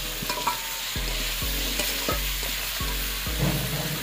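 Vegetables going into hot oil and spice paste in an iron kadai, sizzling steadily, with a metal spatula stirring and scraping against the pan.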